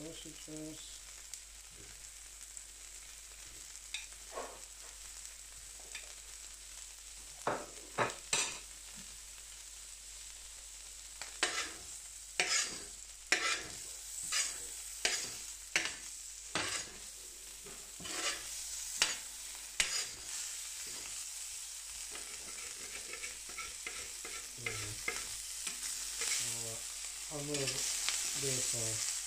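Sausages frying and sizzling on a hot carbon steel griddle, a steady hiss broken by many sharp clicks and knocks as the food is moved on the steel, thickest in the middle of the stretch.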